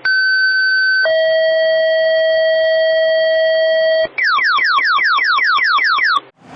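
Fire dispatch two-tone sequential page: a steady high tone for about a second, then a lower steady tone for about three seconds. After a brief break comes a rapid series of falling electronic sweeps, about six a second.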